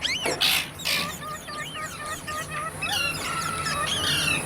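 Parrots chattering: a stream of quick, overlapping chirps and whistles, with a couple of loud harsh squawks in the first second.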